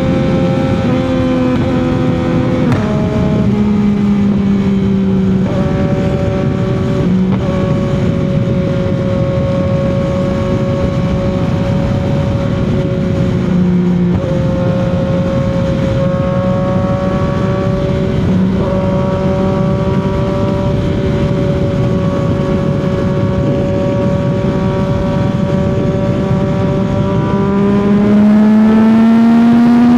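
CFMOTO 675 inline three-cylinder motorcycle engine pulling steadily at highway cruising speed, its note dipping and shifting a few times with small throttle changes. Near the end it revs up and gets louder as the bike accelerates.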